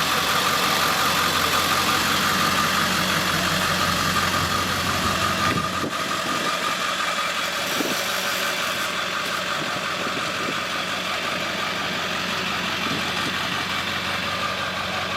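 A vehicle engine idling steadily, with a steady high whine running over the engine noise. The sound drops a little in level about six seconds in.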